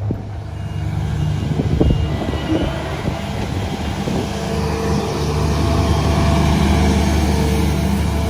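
Heavy diesel engine of construction machinery running steadily, with a few knocks about a second or two in and growing a little louder about halfway through.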